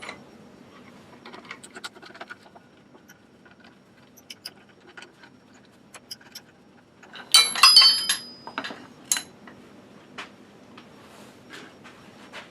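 Scattered light clicks and taps, then a short burst of ringing metallic clinking and jangling about seven seconds in: metal tools and parts being handled at a woodturning lathe.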